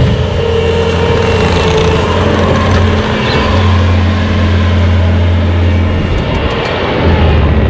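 Bobcat T595 compact track loader's engine running steadily under working load, a loud low drone that dips briefly twice, just after three seconds and again about six seconds in, before picking back up.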